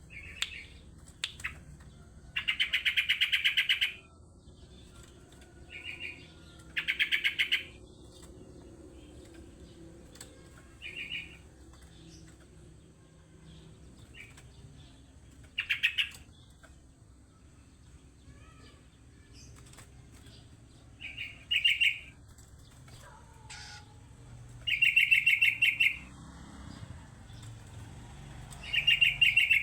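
Terucuk (yellow-vented bulbul) calling in short bursts of rapid chattering notes, about nine bursts a few seconds apart, the longest about a second and a half. It is a lure call played to provoke another terucuk into answering.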